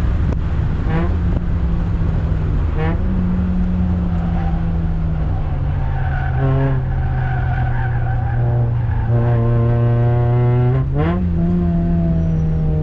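Toyota Yaris NCP91 race car's 1.5-litre four-cylinder engine running hard. Its pitch jumps up sharply three times, about a second in, about three seconds in and near the end, and sinks slowly in between.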